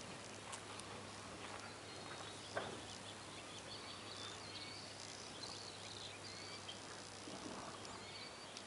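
Faint outdoor ambience with small birds chirping on and off in the background, short high calls scattered throughout. One short, louder sound stands out about two and a half seconds in.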